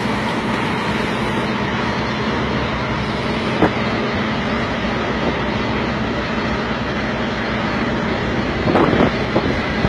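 Scania R440 truck running steadily, a low engine drone with a single sharp click about a third of the way in and a few knocks near the end.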